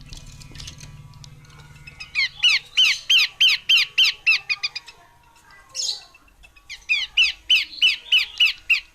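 Horsfield's babbler (pelanduk semak) calling, said to be a female: a fast series of sharp, downward-slurred notes, about three a second, in two runs with a short pause and a single note between them.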